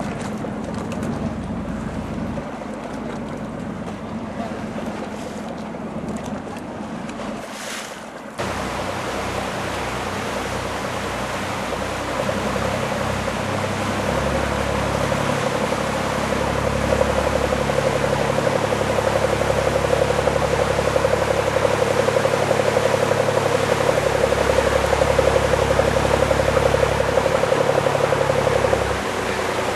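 A boat's engine running steadily amid wind and water noise. The sound changes abruptly about eight seconds in, then grows louder and stays steady until it drops a little near the end.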